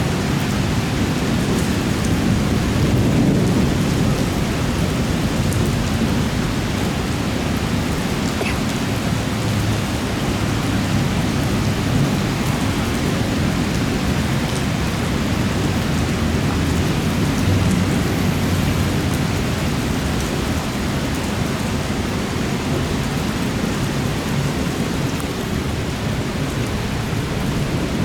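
Heavy thunderstorm rain pouring steadily, with a continuous low rumble underneath.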